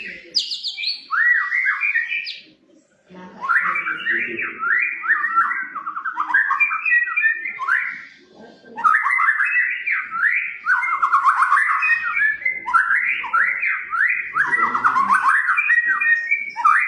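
White-rumped shama (murai batu) singing: fast, varied whistled phrases. A short burst at the start is followed by two long bouts of rapid warbling, with a brief pause about eight seconds in.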